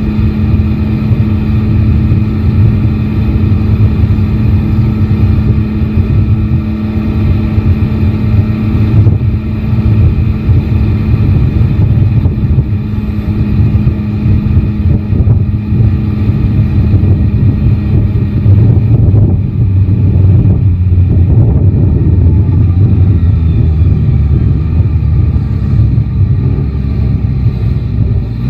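Yamaha Tracer 9 GT's three-cylinder engine running while the motorcycle is ridden, under heavy wind rumble on the microphone. A steady engine note holds for about the first nine seconds, then gives way to a more uneven mix of engine and wind.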